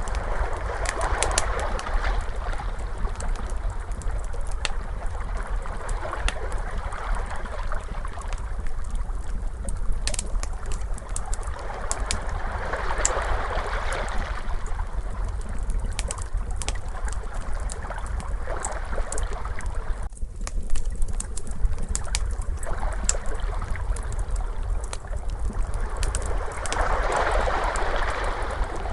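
Ocean waves washing in and out, a swell rising about every 13 to 14 seconds over a steady low rumble, mixed with the sharp pops and snaps of a crackling wood fire.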